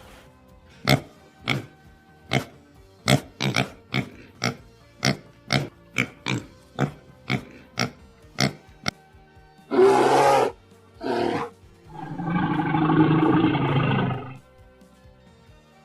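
An animal calling: a run of short, sharp sounds at roughly two a second, then two brief calls and one longer, rough call lasting about two seconds, over soft background music.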